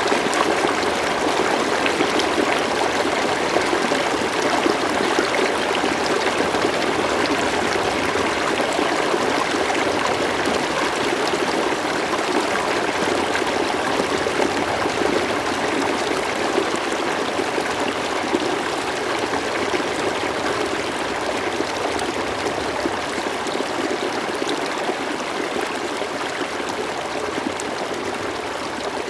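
River water flowing steadily over stones, an even rushing and babbling that eases slightly toward the end.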